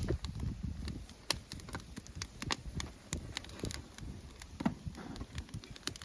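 Campfire wood burning and crackling, with irregular sharp pops and a low rumble that eases after the first second.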